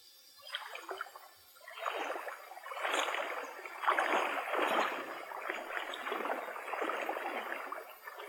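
Creek water splashing and sloshing in uneven surges, starting faint and growing louder after a couple of seconds.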